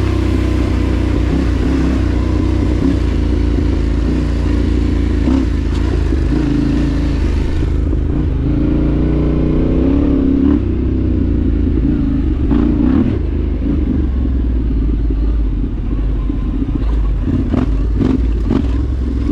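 Dual-sport motorcycle engine running on a dirt trail, its pitch rising and falling with the throttle, with hiss over the top for the first half. Several sharp knocks and clatters come in the second half.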